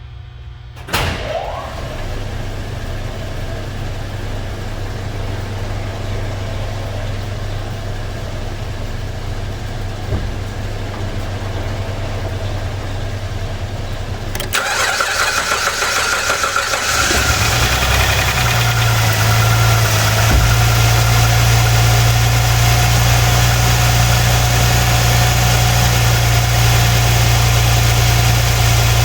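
Jeep Liberty 3.7L V6 engine starting about a second in and settling into an even idle, which grows louder and fuller about halfway through. With new ignition coils and injectors fitted it runs without the earlier misfire.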